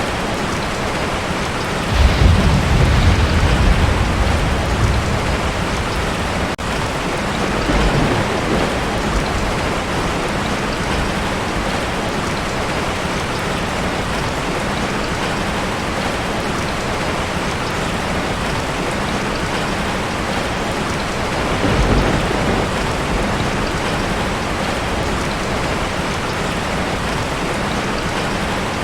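Heavy rain pouring steadily on a tin roof, with thunder. A deep rumble starts about two seconds in and lasts a few seconds, a smaller rumble follows a few seconds later, and another comes near the end.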